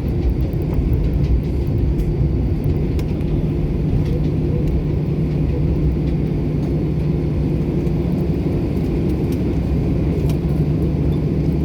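Steady low rumble and engine hum inside a passenger airliner's cabin, with a few faint clicks.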